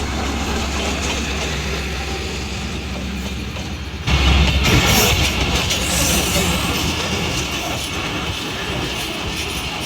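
Passenger train hauled by a ZCU-30 diesel-electric locomotive: a steady low diesel rumble, then about four seconds in a sudden, louder rush of train noise.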